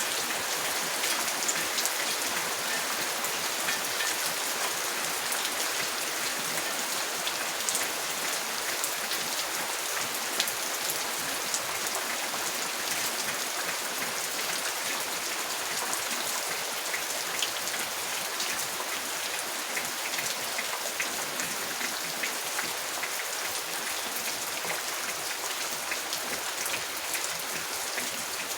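Steady rain falling, an even hiss with many small, distinct drop ticks throughout.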